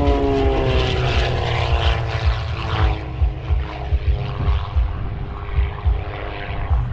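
Propeller airplane flying past, its engine note dropping in pitch as it goes by and then holding steady. Wind buffets the microphone.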